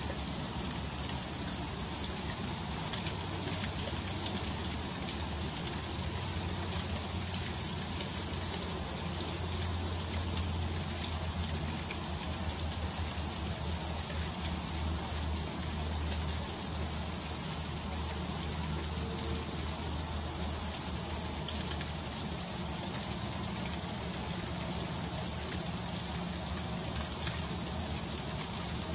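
Freezing rain falling steadily, a dense patter of fine ticks as the drops and ice hit surfaces. A low rumble sits underneath through the middle stretch.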